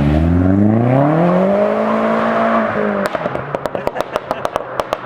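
Car engine revving hard, its pitch climbing for about two seconds and holding, then lifting off about three seconds in, followed by a string of sharp exhaust pops and crackles on the overrun.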